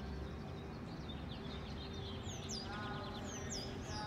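Birds chirping over a steady low background of outdoor noise. The high, quickly falling chirps come mostly in the second half, with a short burst of lower, stacked notes about three seconds in.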